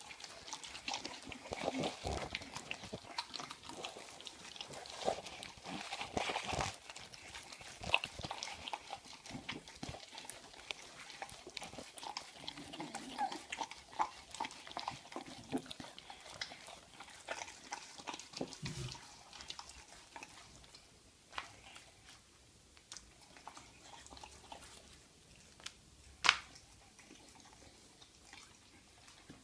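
American Staffordshire terrier chewing and crunching a bird: irregular crunches and clicks, dense at first and thinning out in the last third, with one sharp crack a few seconds before the end.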